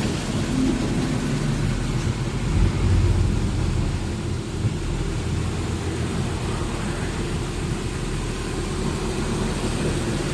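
Truck on the move: steady low engine and road rumble, swelling slightly about three seconds in.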